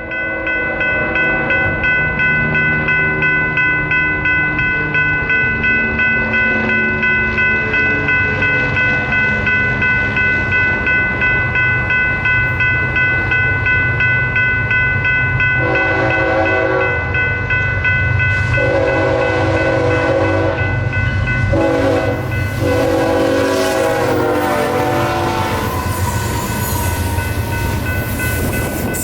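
Railroad crossing bell ringing steadily, about two strokes a second, over the low rumble of a train. About halfway through, a locomotive horn sounds the grade-crossing signal: two long blasts, a short one and a long one, the last dropping in pitch as the train passes.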